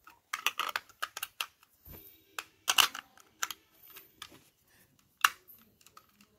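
Irregular sharp plastic clicks and knocks of AA batteries being fitted into a toy RC car remote's battery compartment, the loudest clicks just before three seconds and about five seconds in.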